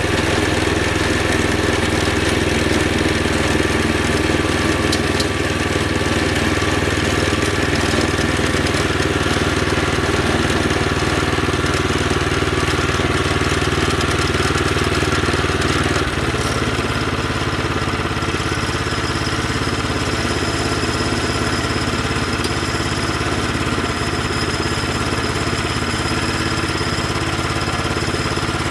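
A sawmill's engine running steadily, its note changing abruptly about 16 seconds in and then holding steady again.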